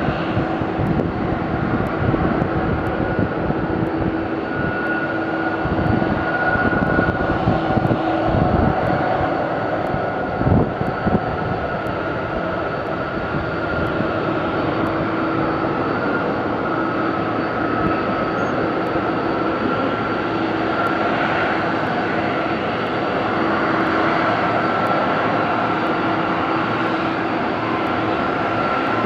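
Airliner engines running steadily at an airport, a continuous whine with several held tones that drift slightly in pitch. Some low rumbling gusts come through between about five and eleven seconds in.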